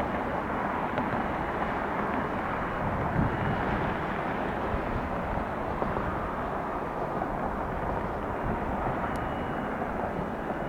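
Jet airliner's engines: a steady rush of noise with a faint high whine at times.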